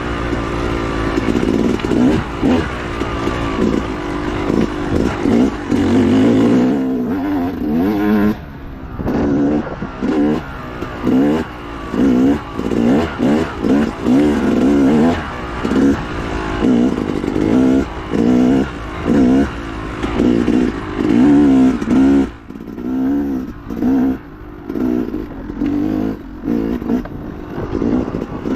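Dirt bike engine revving up and dropping off again and again, about once a second, as the throttle is opened and closed through rough woods terrain. There are short dips where the throttle is shut.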